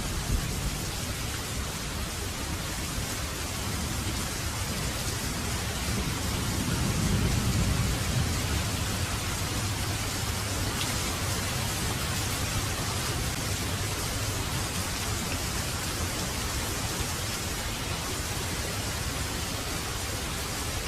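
Heavy rain falling steadily, with a low rumble of distant thunder swelling and fading around a third of the way in.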